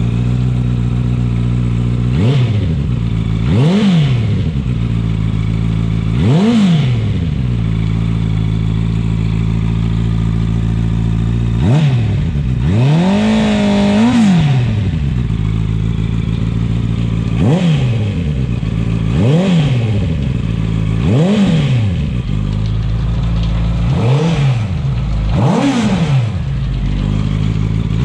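Honda CB650R's inline-four idling through a Termignoni full-system carbon exhaust, blipped repeatedly: about nine quick revs that rise and fall, and one longer held rev in the middle with the pitch wavering at the top.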